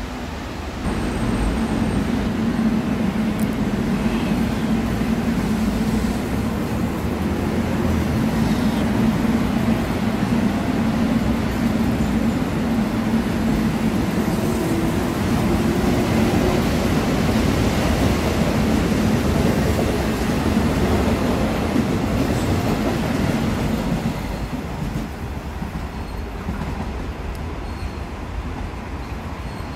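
Electric commuter train running past on the tracks close by and pulling away into the distance: a steady loud rumble with a low hum that sets in about a second in and falls off about 24 seconds in.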